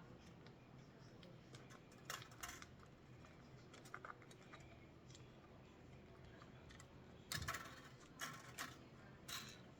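Quiet workbench room tone broken by a few short clicks and scrapes of small parts and hand tools being handled, with a cluster of them in the last few seconds.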